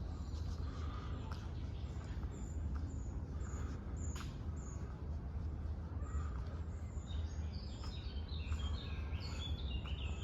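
Small songbirds chirping, with short high notes repeated throughout and a quick song phrase stepping down in pitch near the end, over a steady low rumble of background noise.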